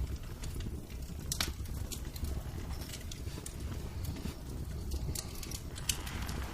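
Wood fire crackling in a fireplace: scattered sharp pops and crackles over a low, steady rumble, one louder pop about a second and a half in.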